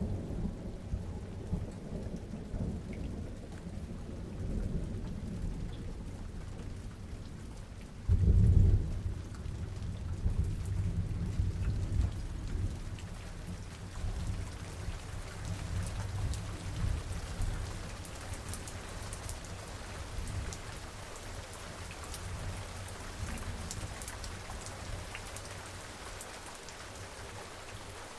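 Thunderstorm: steady rain with rolling thunder. A loud thunderclap breaks about eight seconds in and its rumble dies away over the next ten seconds or so, leaving the rain and the tick of raindrops.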